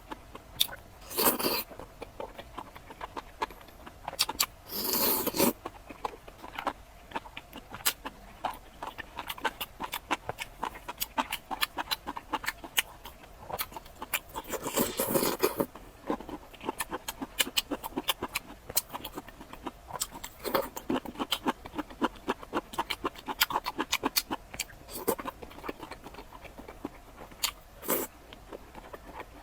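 A person eating close to the microphone: steady chewing and wet mouth clicks, with a few louder bursts of slurping or crunching, the longest about halfway through.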